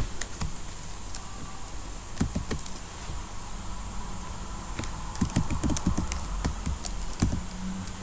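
Computer keyboard typing: irregular bursts of key clicks, two short runs early on and a longer run in the second half, over a steady low hum.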